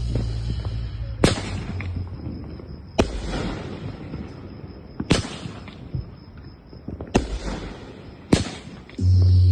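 Backyard consumer fireworks bursting: five sharp bangs about two seconds apart, each trailing off. Music with a steady deep bass plays at the start and comes back in loudly near the end.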